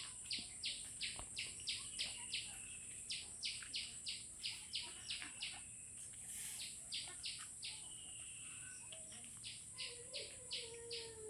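A bird calling in runs of short, repeated notes, about three to four a second with pauses between runs, over a steady high-pitched insect drone.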